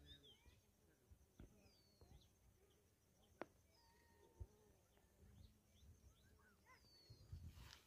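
Near silence: faint open-air ambience with scattered small bird chirps, a single sharp click about three and a half seconds in, and low rumbling on the microphone that swells near the end.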